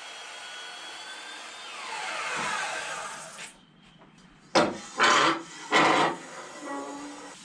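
A power tool's motor runs with a steady whine, then switches off and spins down with falling pitch, while working down an ash slab to remove mill marks. This is followed by three loud scraping strokes on the wood, each about half a second long.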